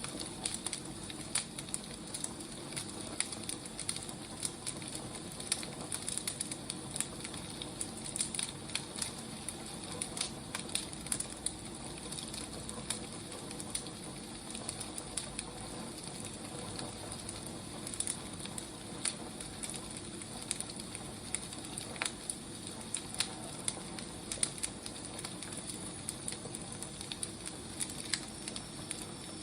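Burning firewood crackling, with irregular sharp pops over a steady soft hiss.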